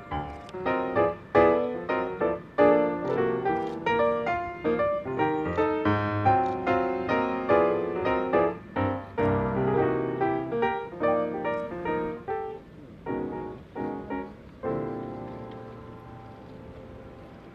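Background piano music: a run of struck notes and chords at a moderate pace, ending on a chord that dies away about 15 seconds in, leaving faint hiss.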